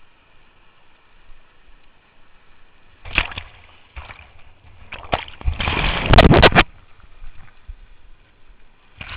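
Whitewater sloshing and splashing over a low steady river rush, with a few loud splashes and one loud burst lasting about a second midway.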